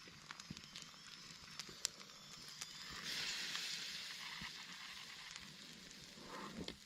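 Campfire crackling, with scattered sharp pops of burning wood. About three seconds in, a broad hiss swells up and then fades away near the end.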